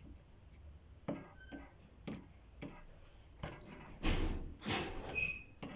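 Light clicks and taps from objects being handled, about every half second, then two louder rustling bursts about four seconds in and a brief high squeak just after.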